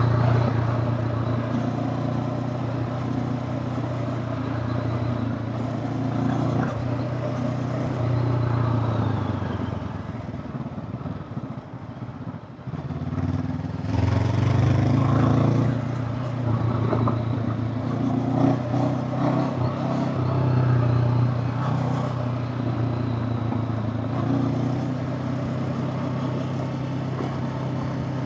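Honda CB500X parallel-twin engine running under varying throttle: it eases off and goes quieter about ten seconds in, then picks up again around fourteen seconds.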